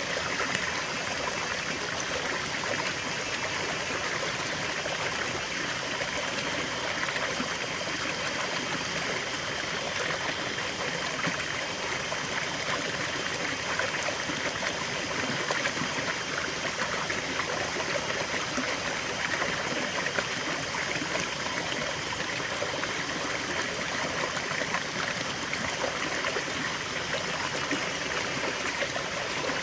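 Small stream of water flowing and trickling, a steady splashing rush with no breaks.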